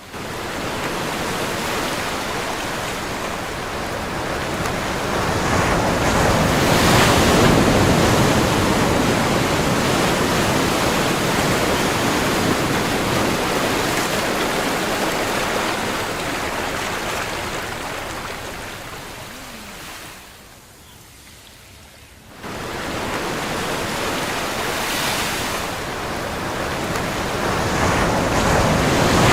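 Ocean surf: waves washing in and drawing back in slow swells of rushing noise. About two-thirds of the way through it falls much quieter for a couple of seconds, then comes back suddenly.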